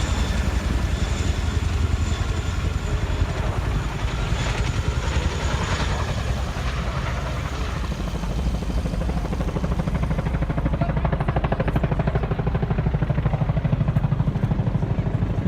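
Helicopter rotor and engine running close by with a steady low rumble and fast rotor beat, the beat growing stronger and more even about two-thirds of the way through as the helicopter comes in to land.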